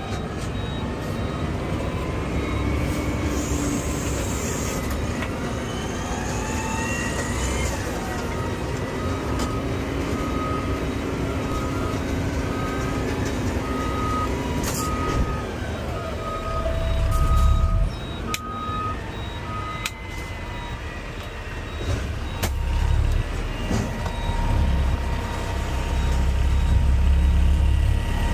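Garbage truck's diesel engine running on the move, its pitch rising and falling again and again as it pulls through the gears, over a steady low rumble. A warning alarm beeps about once a second for around ten seconds in the middle.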